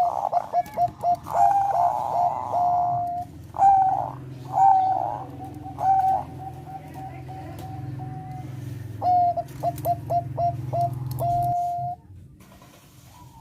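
Zebra dove (Thai 'perkutut bangkok') singing its cooing song: quick runs of short staccato coos, some phrases ending in a longer held note. The song comes in two bursts, with a second run starting about nine seconds in. A low hum underneath stops near the end.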